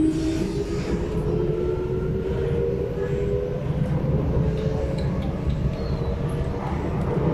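SMRT C751B train heard from inside the carriage as it accelerates: the traction motor whine climbs steadily in pitch for the first few seconds, then fades into a steady running rumble of wheels on rail.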